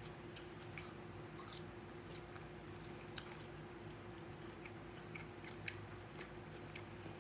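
Quiet chewing of a mouthful of food, with scattered faint clicks as a fork works in a foam takeout container, over a steady low hum.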